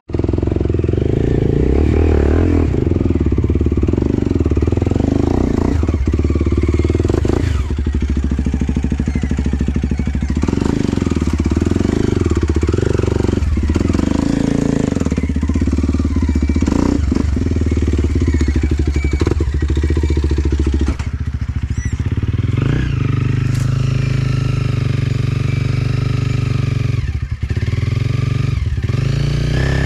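Enduro dirt-bike engine running under load, its revs rising and falling, with scattered knocks and clatter.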